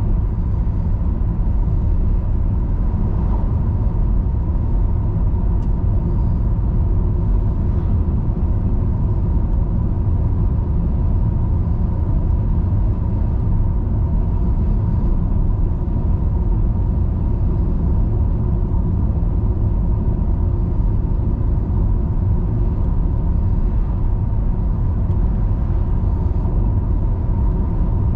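Car being driven along a road: a steady low rumble of engine and tyres that holds at the same level throughout, with a thin steady whine above it.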